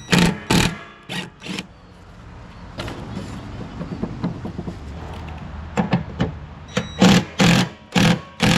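Sharp metal knocks on a lawn tractor's mower deck as a rusted, seized idler bracket is worked loose. They come in two runs of four or five strikes, about half a second apart: one at the start and one near the end.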